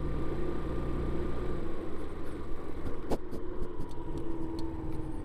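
Yamaha Vino 125 scooter's single-cylinder four-stroke engine idling steadily, with one sharp click about three seconds in.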